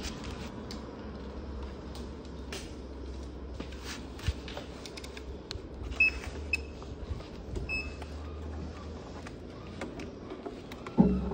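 Refrigerator compressor running with a steady low hum after replacement, with scattered handling clicks and knocks. Three short high beeps come between about 6 and 8 seconds in, and there is a loud thump near the end.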